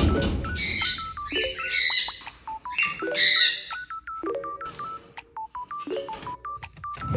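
Sun conure giving three loud, harsh calls within the first four seconds, over background music with a plinking, stepping melody.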